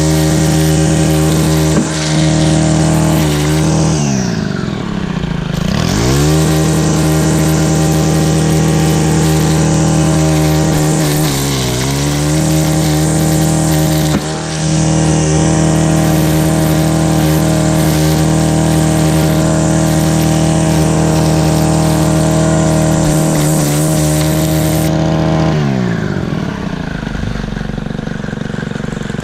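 Small two-stroke engine of a handheld power tool held at high revs. Its pitch drops sharply and climbs back twice, once about four seconds in and again around twelve seconds, then falls away near the end as the throttle comes off.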